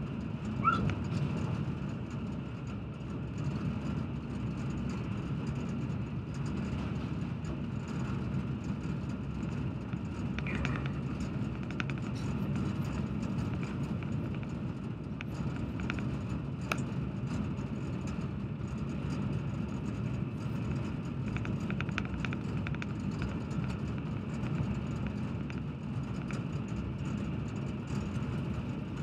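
Passenger train running along the line: a steady low rumble of wheels on rails, with faint scattered ticks and a short squeak about a second in.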